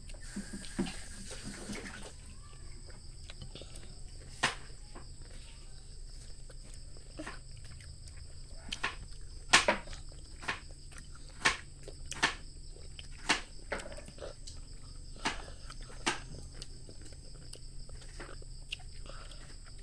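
A child biting and chewing crisp raw cucumber slices, with sharp, irregular crunches, most of them between about four and seventeen seconds in.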